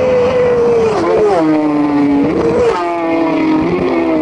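Racing superbike engine shedding speed under hard braking, its pitch falling and jumping up twice as it drops down through the gears.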